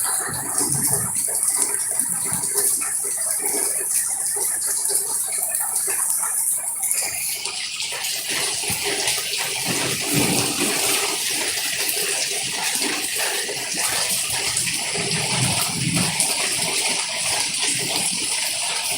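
Steady rain falling, a continuous hiss of water that grows brighter and fuller about seven seconds in.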